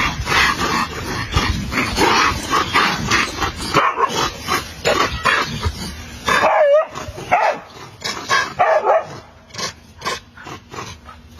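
Dog barking in quick, repeated barks, with a few drawn-out cries in the middle; the barking gets sparser and quieter near the end.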